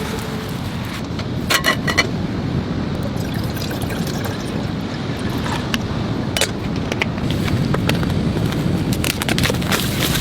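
Steady rain with wind, and scattered sharp taps of drops landing nearby.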